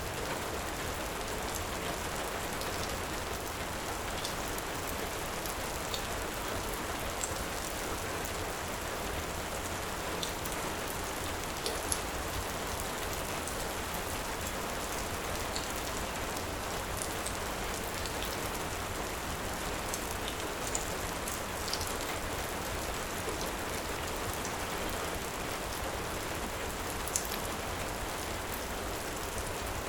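Steady heavy rain as an even hiss, with scattered small sharp crackles from a wood fire every second or two.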